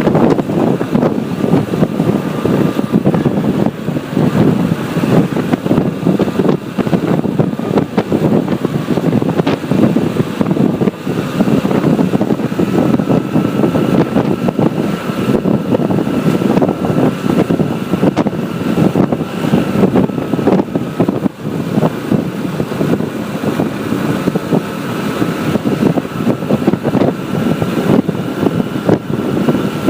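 Steady road noise of riding a motorbike in traffic: engine hum and air rushing past, continuous and loud, with a faint thin whine joining about halfway through.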